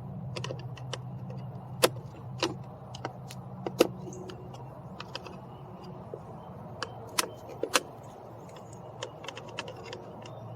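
Irregular small metallic clicks and clinks of hand tools and screws as fasteners are worked on a car door's window switch bezel, over a steady low hum.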